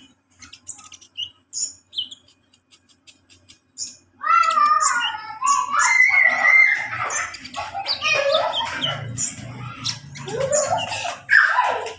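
Kolibri ninja (a sunbird) singing. Sparse high chirps and clicks for the first four seconds, then a loud, fast, continuous warbling chatter.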